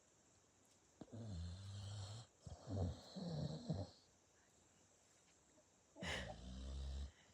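A sleeping dog snoring: several drawn-out snores in the first few seconds, a pause of about two seconds, then one more long snore near the end.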